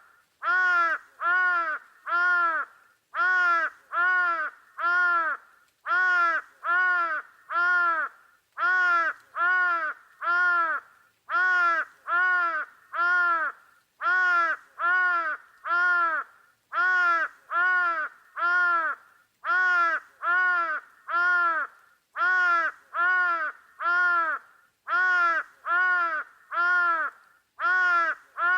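A bird's calls in steady groups of three, a group about every three seconds, each call rising and falling in pitch.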